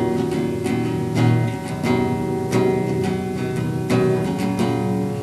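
Acoustic guitar strummed in a steady rhythm, with no singing, in an instrumental gap between sung lines of a song.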